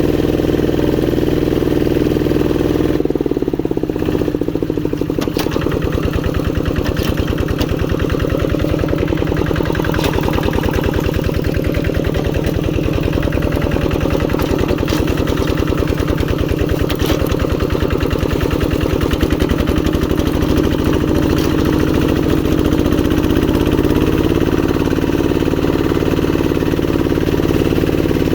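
Old Kubota RD85 single-cylinder diesel on a hand tractor running steadily while ploughing a rice paddy, with a rapid even chugging. Its note shifts about three seconds in and again near the end.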